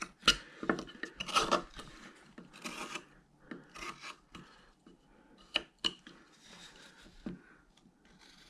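Carving knife shaving and cutting wood in short, irregular strokes, with a few sharp clicks of the blade biting in, as a bandsaw-cut Santa figure's boot is pared down.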